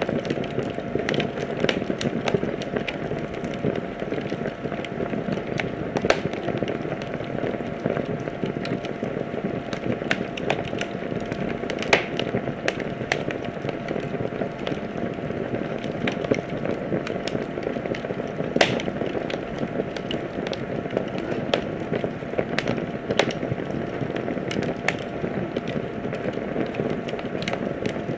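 Wood fire crackling in a fireplace: a steady low rush of burning with frequent irregular snaps and pops, a few of them sharper and louder than the rest.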